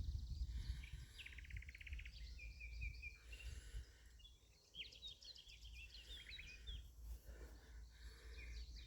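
Woodland birdsong: several small songbirds chirping and trilling in quick, varied phrases, with a low wind rumble on the microphone.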